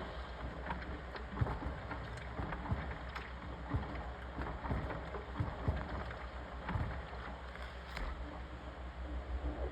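Washing machine running with water sloshing, a steady churning wash with many irregular small knocks and clicks throughout.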